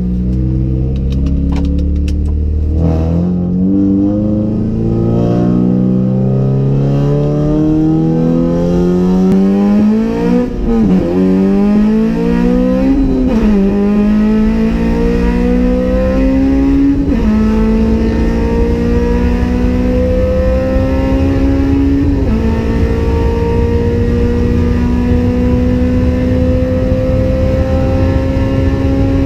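Honda Civic Type R FD2R's K20A four-cylinder VTEC engine under hard acceleration, heard from inside the cabin: the engine note climbs in pitch, drops at each of about four upshifts, then climbs again, more slowly in the higher gears. Road noise runs underneath.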